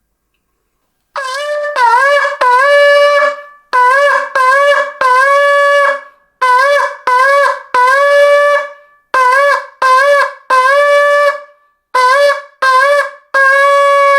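A shofar being blown in a series of short blasts in five groups of three, each note scooping up into a steady tone, the third note of each group held longer. The blasts begin about a second in, and the last note is held longest.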